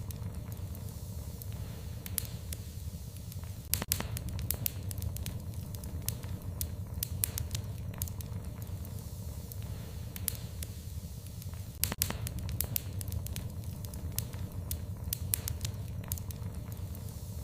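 Wood fire in a fireplace crackling, with scattered sharp pops over a steady low rumble of the flames; two louder pops come about 4 and 12 seconds in.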